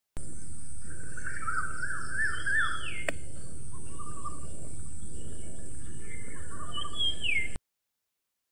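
Birds singing and calling: warbling chirps and a couple of falling whistled notes, over a steady outdoor background hiss. There is a single sharp click about three seconds in, and everything cuts off abruptly about seven and a half seconds in.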